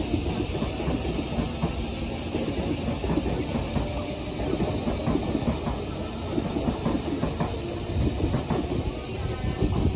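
JR Shikoku 8000 series electric train pulling out of the station, its wheels running over the rails with a steady rumble and irregular knocks.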